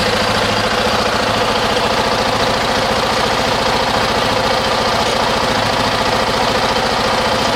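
Honda XR650's single-cylinder four-stroke engine, fitted with an FCR carburettor, idling steadily with a rapid, even train of firing pulses.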